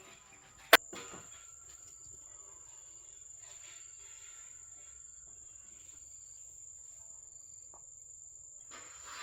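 Insects trilling steadily on one high continuous note, with a single sharp knock about a second in.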